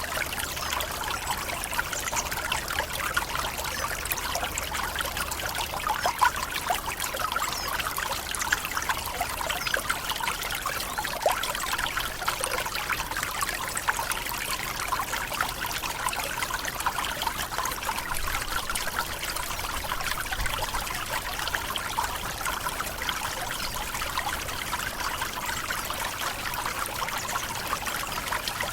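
Tropical forest waterfall: water falling and splashing steadily, with a dense trickling patter of many small splashes.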